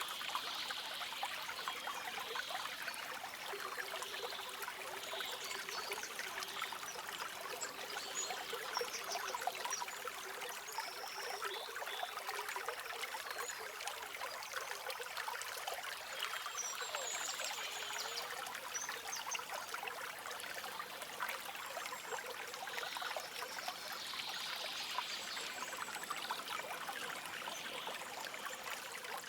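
A shallow forest stream trickling and bubbling steadily over stones, with faint, brief bird chirps now and then.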